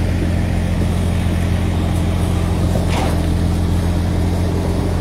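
Construction machine's engine running steadily at an even speed, a low constant drone.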